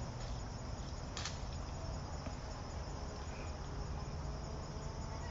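Crickets chirping steadily over a low, steady rumble, with a single sharp click about a second in.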